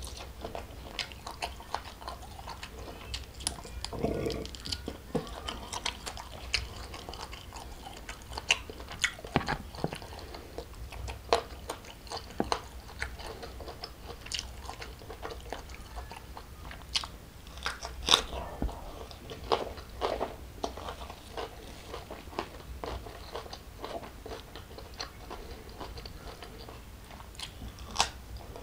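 Close-miked eating: a person chewing and crunching mouthfuls of prawn, rice and raw greens, with many sharp wet mouth clicks. The loudest click comes about eighteen seconds in.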